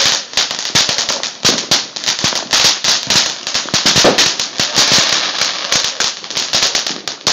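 A string of firecrackers going off in a rapid, dense run of sharp pops and crackling that cuts off suddenly at the end.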